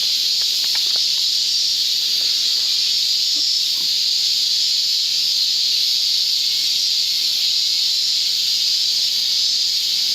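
Cicadas singing in chorus: a loud, steady, high-pitched buzz that does not let up.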